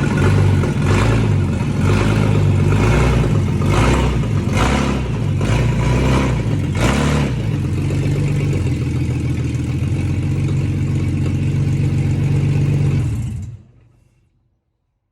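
Ford BA Falcon engine blipped several times in quick succession for the first seven seconds or so, then settling into a steady idle. The sound cuts off abruptly about thirteen and a half seconds in.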